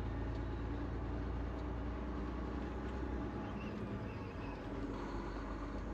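Semi-truck running down the highway, heard inside the cab: a steady low engine and road rumble.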